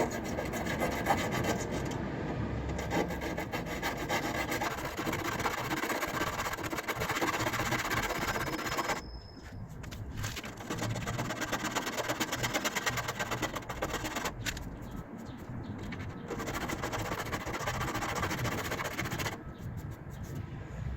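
Rust being rubbed off a car's steel body panel by hand with an abrasive, a dense run of quick scraping strokes. It stops briefly about nine seconds in and again near the end.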